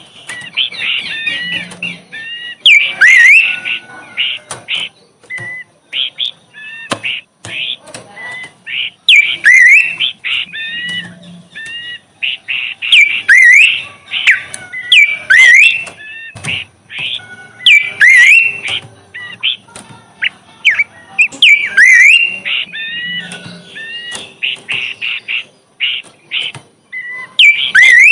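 A songbird singing a fast, busy song of short chirps and quick rising whistles, with loud upward-sweeping notes coming back every couple of seconds.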